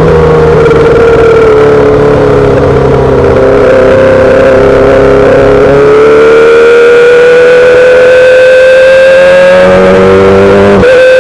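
2008 Yamaha R6's inline-four engine running through a full SC-Project exhaust while riding. Its pitch sags a little, then climbs steadily under throttle through the second half, with a brief break near the end.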